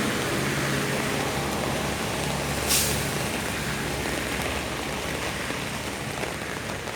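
A heavy vehicle's engine running close by and fading after a few seconds, with one short air-brake hiss about three seconds in. Steady rain noise underneath.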